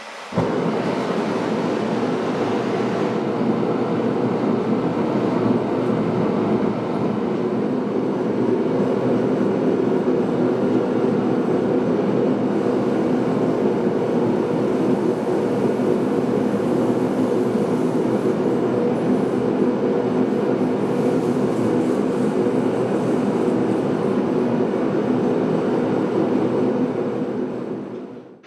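Propane forge burner running with a steady roar, heating the Damascus blade for heat treating. It starts abruptly and fades out near the end.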